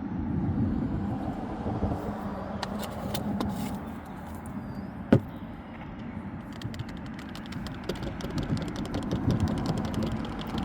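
Steady low rumble, with one sharp click about halfway through and a run of small, rapid clicks in the last few seconds.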